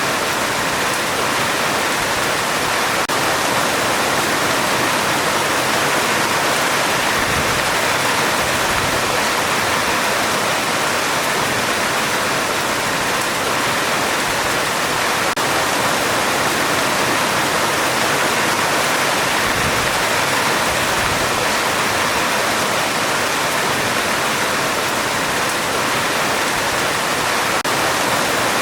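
Heavy rain falling steadily on a metal roof: a dense, even hiss with no breaks.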